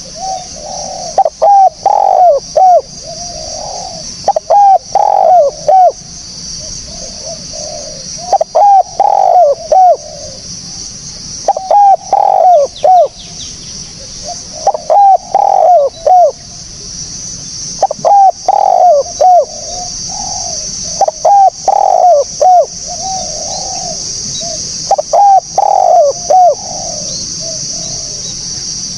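Spotted dove (tekukur) cooing in repeated multi-note phrases, eight in all, about one every three and a half seconds, over a steady high hiss.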